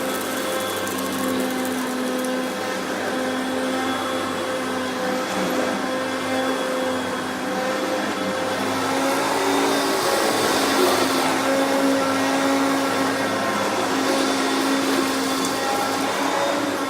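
Hoover Concept vacuum cleaner running steadily as it is pushed over an area rug: a continuous motor hum over rushing air, getting a little louder about halfway through.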